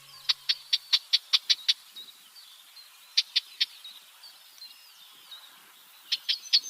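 Red-backed shrike calling: short, sharp notes in quick runs of three to eight, with softer chattering notes between the runs.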